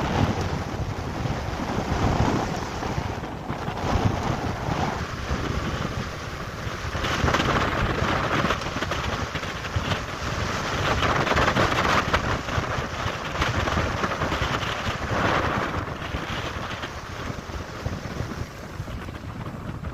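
Wind buffeting the microphone over the running noise of a moving vehicle, swelling and easing in gusts.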